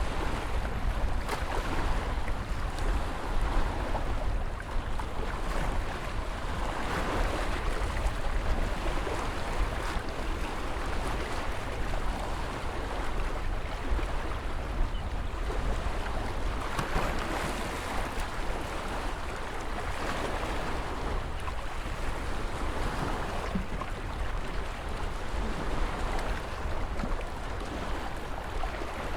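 Ocean waves breaking and washing in: a continuous surf hiss that swells every few seconds, over a low rumble of wind on the microphone.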